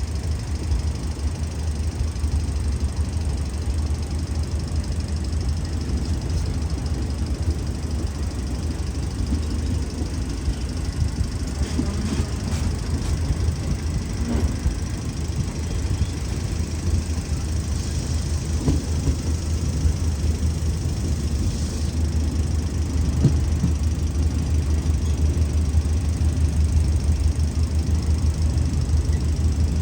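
Diesel-electric locomotive engine running steadily with a deep, even rumble, a little louder near the end.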